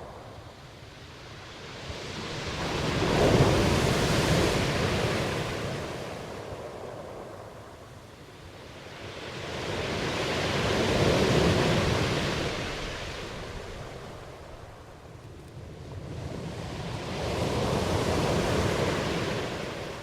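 Ocean surf: waves washing in and drawing back, three slow swells of rushing water, each building and fading over several seconds.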